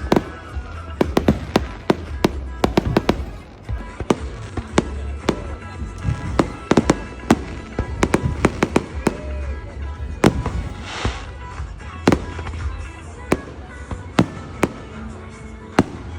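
Fireworks going off: a rapid, irregular series of sharp bangs and cracks, some in quick clusters, with a burst of crackling about eleven seconds in.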